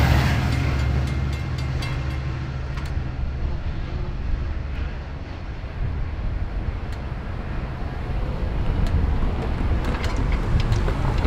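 Low rumble of a Long Island Rail Road diesel train running away from a level crossing, easing off over the first few seconds, with scattered light clicks. Near the end, road traffic starts driving over the crossing and the noise builds again.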